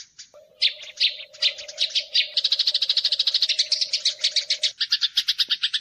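Eurasian tree sparrows squabbling: a fast, dense chatter of sharp chirps, about ten a second, growing busier and louder after about two seconds. A faint steady hum runs under it for most of the stretch.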